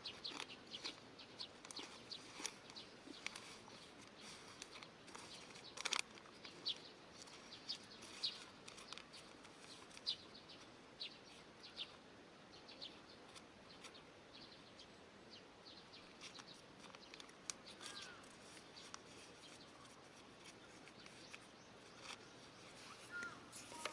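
Faint chirping of small birds: short, high calls repeating irregularly over a low outdoor hiss.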